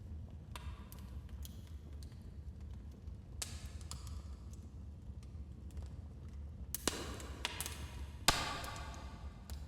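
Wood fire burning in a fireplace: a low steady rumble of flames with scattered crackles and snaps, a flurry of crackling about seven seconds in and one sharp loud pop near the end.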